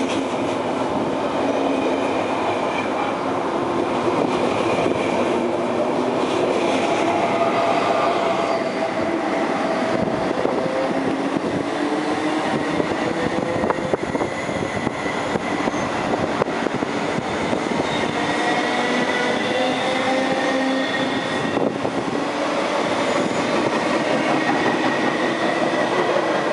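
Double-deck KTT through train running past on the rails, steady wheel-and-rail noise. Part way through this gives way to metro trains moving alongside an underground platform, with motor whines that glide slowly up and down in pitch over the rail rumble.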